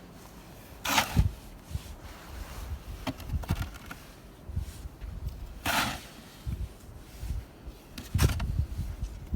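Snow shovel scraping through deep snow three times, short hissing strokes, with low thuds between.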